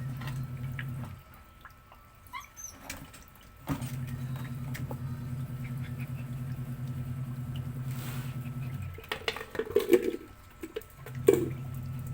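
Washing machine motor humming as it agitates the laundry. It stops for a couple of seconds about a second in, starts again, stops again just before nine seconds in, then starts up once more. A few sharp, louder sounds come between about nine and eleven seconds in.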